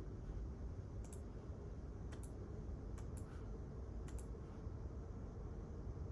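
Light clicking: four pairs of short, sharp clicks about a second apart, over a steady low background rumble.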